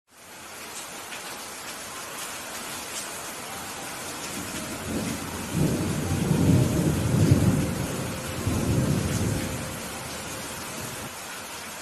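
Steady rain with a long roll of thunder: a deep rumble builds about four seconds in, swells, then fades away a few seconds later while the rain keeps falling.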